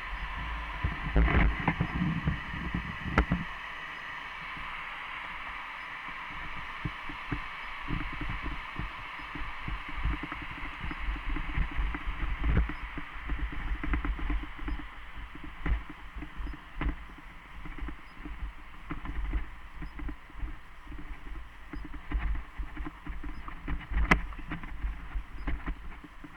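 Mountain bike riding along a dirt trail: irregular knocks and rattles from bumps over a steady hiss, with the sharpest jolts near the start and again near the end.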